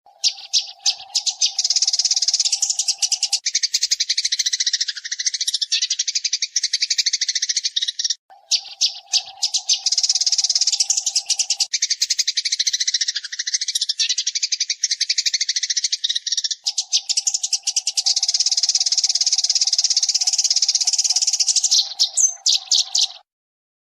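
Eurasian tree sparrow chattering: dense, rapid high chirps in three long stretches broken by short pauses, over a faint steady hum in parts of each stretch.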